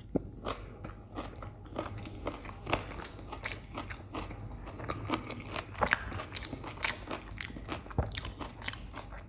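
Close-up chewing of a toasted aloo (potato) sandwich, a stream of crisp crunches from the grilled bread with wet chewing between them.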